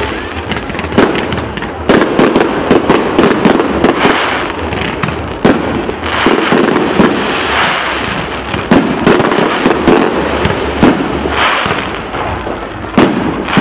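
Fireworks display: a steady barrage of sharp bangs and crackling bursts, several a second, with the loudest bangs about a second, two seconds and thirteen seconds in.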